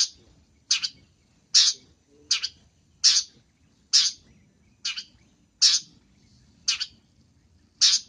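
Long-tailed shrike (pentet) giving short, harsh calls over and over, about one a second, some of them doubled.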